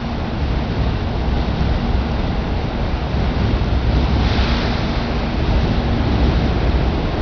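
A 100 series Shinkansen standing at the platform, giving a steady low rumble and hiss with a faint hum, and a louder hiss swelling briefly about four seconds in.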